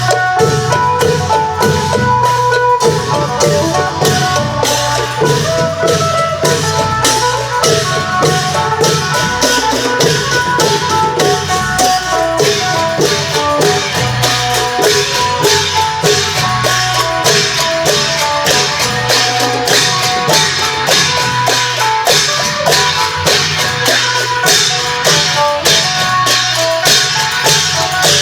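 Isan klong yao long-drum band playing a fast, steady beat with rapid cymbal strokes, under a plucked melody on the phin (northeastern Thai lute).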